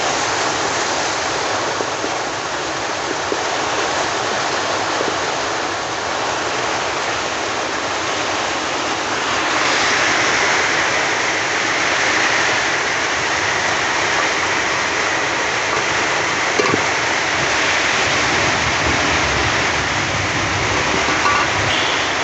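Heavy rain pouring, with rainwater running, as a steady rushing noise that grows slightly louder about ten seconds in.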